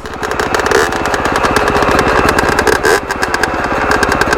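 Dirt bike engine idling steadily with an even, rapid pulsing.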